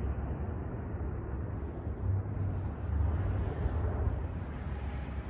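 Low, rough rumbling left behind by a passing C-130 Hercules, swelling about two and three seconds in, which the person filming takes for turbulence.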